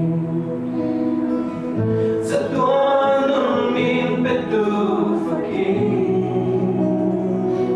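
Worship music: a group of voices singing together in long held notes, with instruments.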